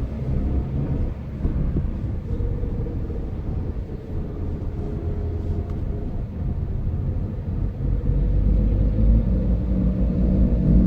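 Car driving on a city road: a steady low rumble of road and engine noise that grows louder about two-thirds of the way through.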